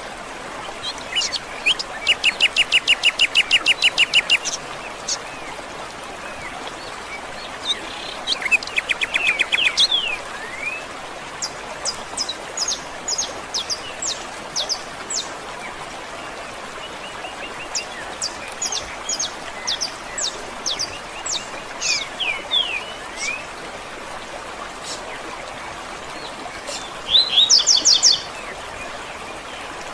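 Wild birds singing: a fast trill of evenly repeated notes, a second shorter trill, then a run of sharp, high, falling notes, and another brief trill near the end, over a steady background hiss.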